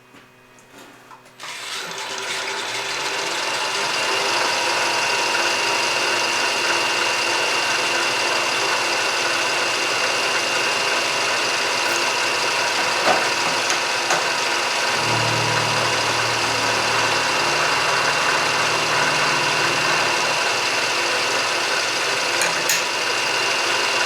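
A milling machine's motor starts about a second and a half in, builds up over a couple of seconds, and then runs steadily with a constant whine. A lower hum joins it for about five seconds in the second half.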